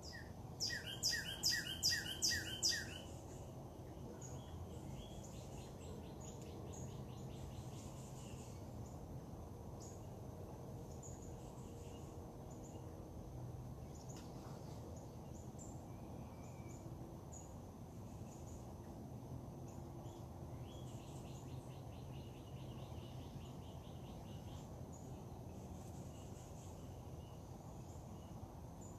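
Birds singing over steady low background noise. The loudest is a bird giving a run of about six loud repeated notes near the start; later come two fainter rapid trills.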